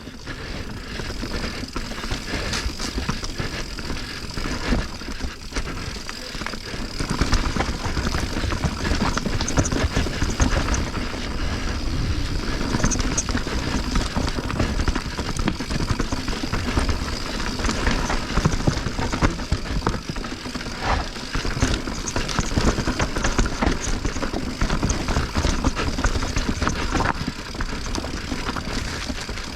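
Mountain bike riding down a rough, rocky trail: a steady rush of wind noise on the microphone, with tyre rumble and frequent rattles and knocks from the bike over the rough ground.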